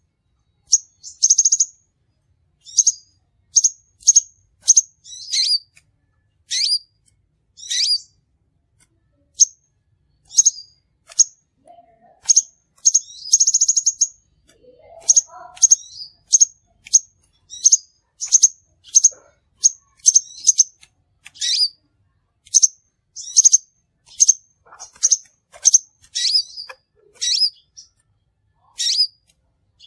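Crimson sunbird calls: short, sharp, high chirps, one or two a second, with a quick buzzing trill about a second in and another around thirteen seconds in.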